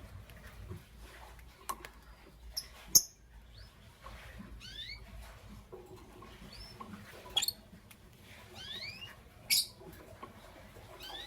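Lovebirds (a Fischer's lovebird and a pastel blue lovebird) chirping: short rising chirps in small runs, with a few louder, sharper calls, the loudest about three seconds in and again near the end.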